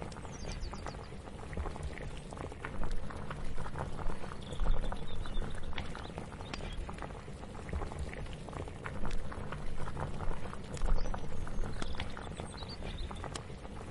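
Kitchen ambience: liquid bubbling in a pot on the stove over a low rumble, with many scattered light clicks and clinks.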